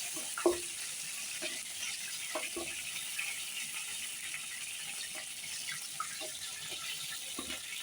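Chicken pieces frying in hot oil in a kadai, a steady sizzle, with scattered clinks of a utensil against the pan as the pieces are lifted out; the sharpest knock comes about half a second in.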